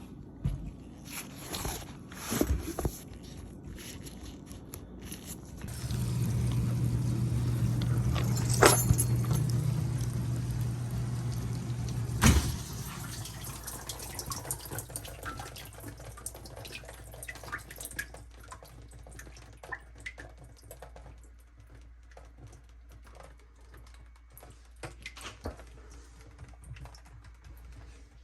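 Water running with a steady low hum for about six seconds, cut off with a sharp knock; clicks and knocks come before it and a faint trickle follows.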